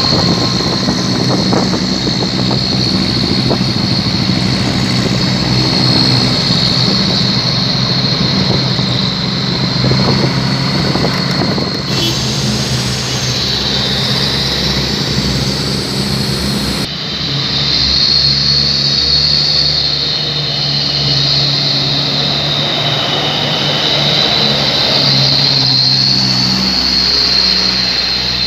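Trucks with 'chung takalar' modified exhausts pulling along a steep road, giving a loud, deep engine note, with the sound changing abruptly twice.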